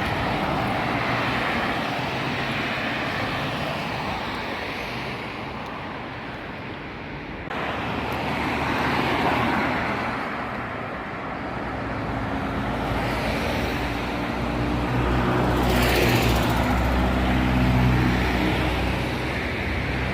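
Street traffic noise, a steady rushing of passing vehicles. From about halfway through, a vehicle engine runs close by with a low steady hum under it.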